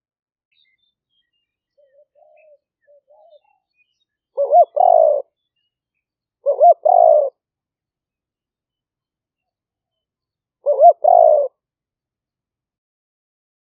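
Spotted dove cooing: three loud calls several seconds apart, each a quick short note followed by a longer one, with a few faint soft notes before the first.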